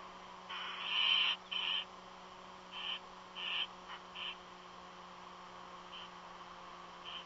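Strange raspy calls from an unidentified bird at an eagle nest, not an eagle's voice. The longest and loudest call comes about a second in, followed by a run of shorter calls that grow fainter, over a steady low hum.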